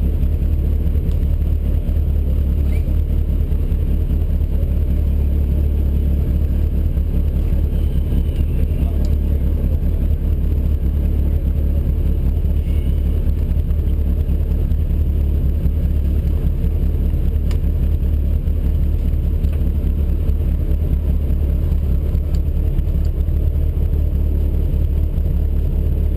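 MG ZR rally car's engine idling steadily with a low, even drone, heard from inside the cabin as the car waits at the start line.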